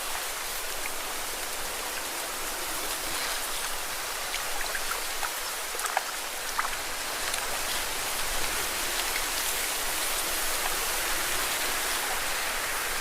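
Lake water washing and splashing against rocks: a steady watery hiss with scattered small drips and splashes.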